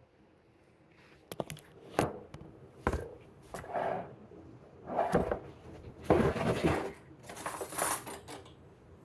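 Kitchen dishes and utensils being handled: a string of sharp knocks and clicks, then longer scraping and rattling stretches, stopping shortly before the end.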